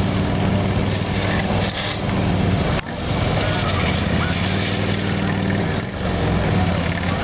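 Police motorcycle engine running under throttle on a competition course, its note holding steady and then dipping sharply about three seconds in and again near six seconds.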